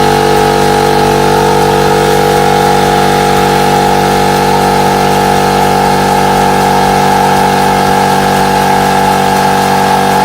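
Electric piston air compressor running steadily with a constant motor hum, pumping up its tank while the tank's drain valve is left open.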